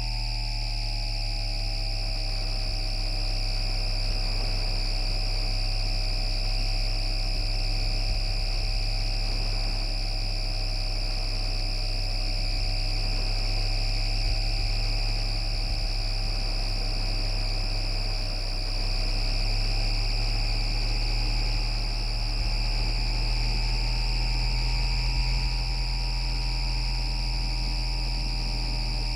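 The IGBT VVVF inverter and traction motors of an FGV Class 4200 Bombardier Flexity Outlook tram (MITRAC drive) running. There is a steady high whine and a low hum under a cluster of motor tones. The motor tones sink slightly at first, hold, rise a little past the middle and sink again near the end, following small changes in speed.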